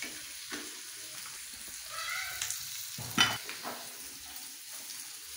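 Satay pieces frying in oil in a pan, sizzling steadily as a spatula stirs them, with several clacks of the spatula against the pan, the loudest about three seconds in.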